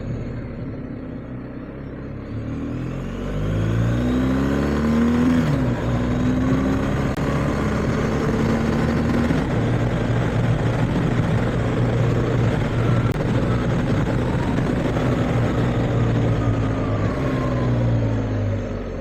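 BMW R1250GS boxer-twin motorcycle engine pulling up in revs about three seconds in, then running steadily at speed with road and wind noise, and easing off near the end.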